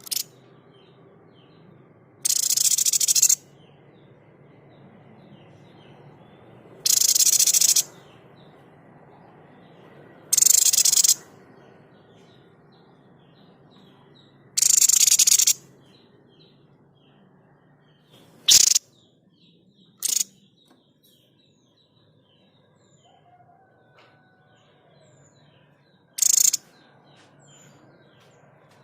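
Calls of the Indonesian 'sniper' bird (tepus dada putih), a small babbler, giving its harsh, shot-like calls. The first four calls last about a second each and come a few seconds apart. The last three are short sharp cracks. Faint chirps of other birds fill the gaps.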